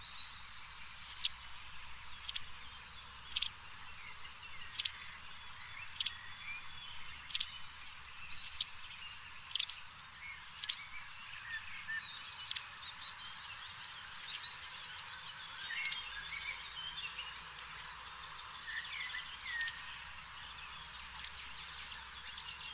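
Birds singing: sharp chirps repeating about every second and a quarter, then denser trills and rapid runs of notes from about halfway on, over a steady hiss.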